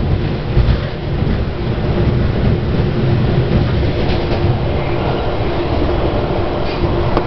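Inside a Miami Metrorail Budd-built rapid-transit railcar running on the track: a steady low rumble of wheels on rail with a faint steady hum.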